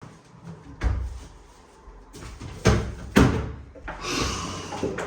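Household knocks and thumps: a dull thump about a second in, then two sharp knocks close together around three seconds in, followed by a steady hissing noise near the end.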